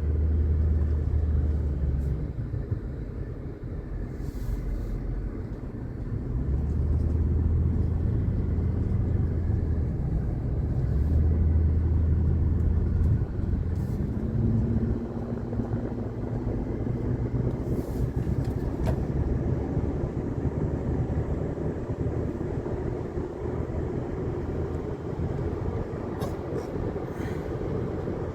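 Car driving along a highway: a steady rumble of tyres and engine, with stretches of heavier low rumble that come and go.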